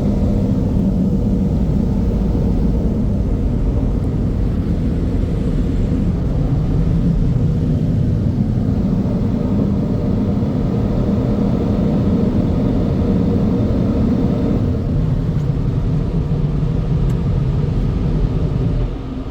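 Steady low rumble of automatic car wash tunnel equipment, heard from inside the car riding through, with a faint steady hum; it drops off sharply near the end.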